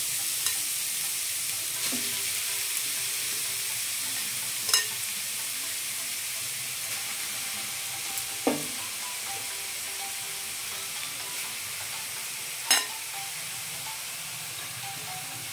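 Freshly grated carrots sizzling in hot ghee in a nonstick pan, a steady hiss that slowly dies down. Three sharp clicks stand out over it.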